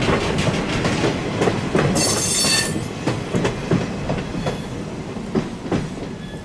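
Passenger coaches rolling past, wheels clicking over the rail joints, with a brief high-pitched wheel squeal about two seconds in. The sound fades as the last car goes by.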